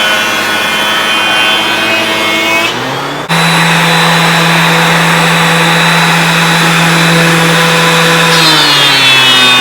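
Thickness planer with a helical carbide cutterhead running, with the dust collection also on. From about three seconds in, a steady cutting noise sits over the motor hum as a walnut board feeds through; the hum steps up in pitch then and drops back near the end.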